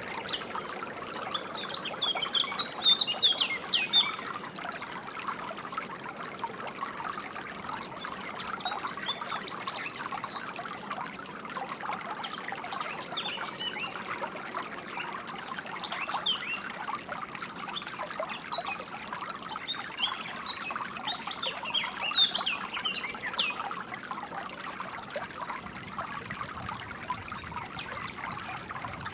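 Shallow water trickling and burbling steadily, with songbirds chirping over it in short, high phrases that come and go in spells.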